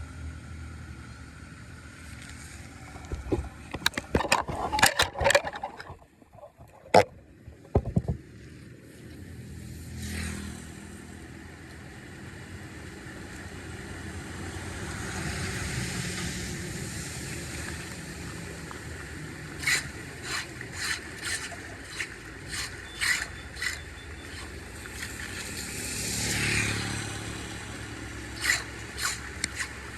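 A series of sharp knocks and scrapes from hand tools working blocked debris, followed by a steady rush of water that swells twice, with scattered clicks.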